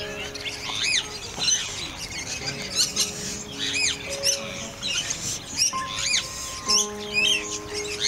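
Birds chirping, short high calls that rise and fall, a couple every second, over background music with long held notes.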